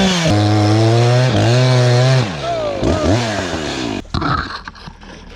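Chainsaw engine running at high revs, its pitch wavering, then easing off about two seconds in and winding down until it stops around four seconds in. Light knocks and clatter follow.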